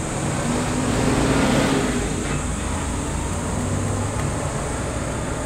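Steady background noise: a low hum under a high hiss, swelling for a moment between one and two seconds in.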